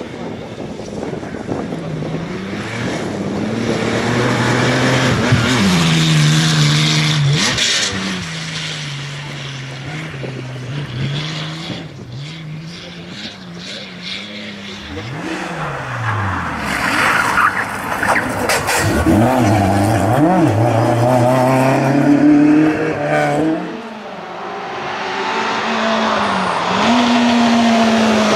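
Historic rally car engines at full throttle, pitch climbing through the gears and dropping on each shift or lift, with cars passing close by and tyres squealing.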